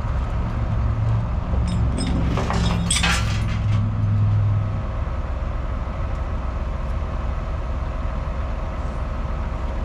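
A heavy truck's engine running steadily, with a cluster of metal clinks and clanks about two to three seconds in. The engine note eases about five seconds in.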